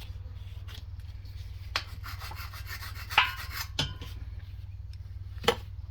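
Parts being worked by hand on a small mower engine: scraping and rubbing of metal and plastic pieces, with a few sharp clicks and knocks near the middle and one more click near the end, over a steady low hum.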